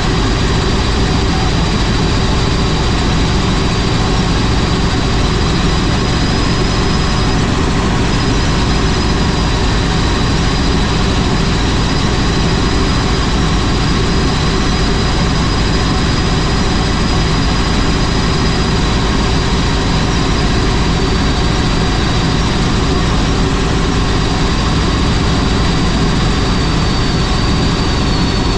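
Helicopter running: a loud, steady wash of engine and rotor noise with a steady high whine over it.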